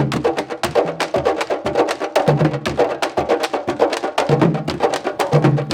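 Candombe drums played together in a dense, fast rhythm: hand and stick strokes on the drumheads, deep low-drum tones, and sharp clicks of sticks striking the wooden drum shells.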